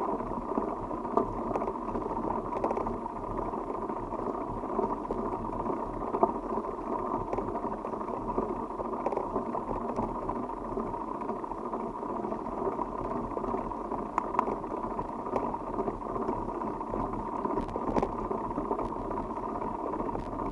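Bicycle riding noise: a steady rumble of tyres and wind, with scattered small clicks and rattles.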